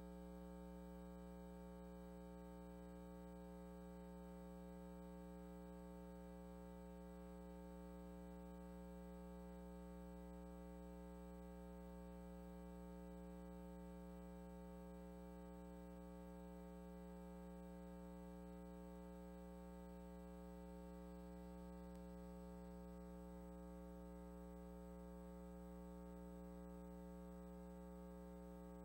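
Near silence with a steady electrical mains hum: one low buzzing tone with many overtones that never changes.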